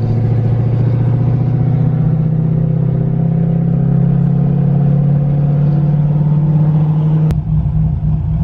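A vehicle engine running steadily with a slow, slight rise in pitch. About seven seconds in, the sound changes abruptly to a rougher, choppier engine rumble.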